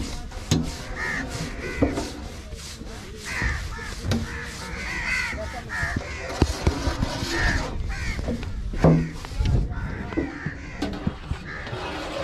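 Birds cawing repeatedly, with scattered sharp knocks and thuds in between.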